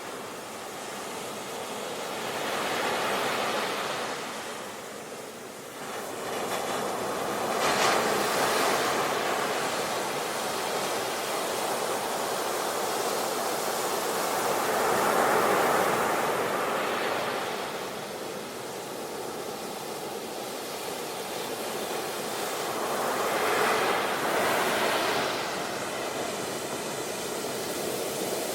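Sea waves breaking and washing up a beach. The surf swells and eases in a slow rhythm, with about four louder surges, each several seconds long.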